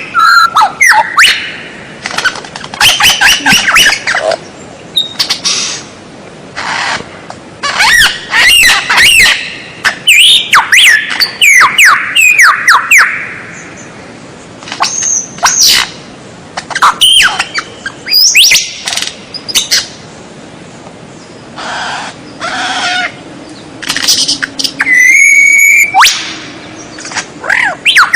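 White-rumped shama (murai batu) singing: loud bursts of rapid, varied whistles and chattering notes with short pauses between them, and a longer held whistled phrase near the end.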